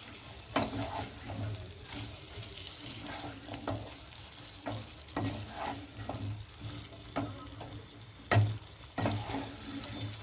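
Chicken pieces with spice paste being stirred and fried in a pan: a utensil scraping and knocking against the pan every second or so over a faint sizzle, with one louder knock about eight seconds in.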